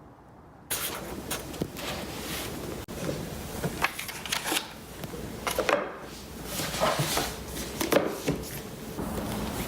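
A string of irregular clicks, knocks and rustles of objects being handled, starting just under a second in after a brief quiet.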